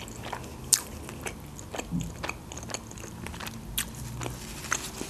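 Close-up chewing of a mouthful of khinkali (Georgian dumpling), with irregular wet mouth clicks and smacks; one sharper click comes under a second in.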